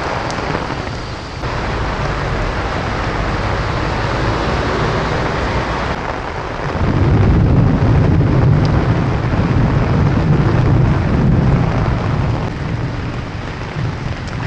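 Heavy tropical downpour, rain pouring steadily. About seven seconds in, a deep low rumble swells over the rain and lasts about five seconds before easing.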